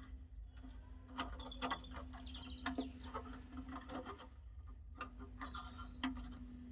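Scattered light clicks and knocks of metal parts being handled while a battery clamp is fitted, with a few faint high squeaks, over a steady low hum.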